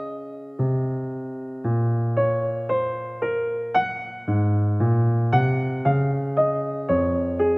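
Soft background music: a piano-like keyboard playing gentle notes and chords, a new note struck about twice a second and each one fading.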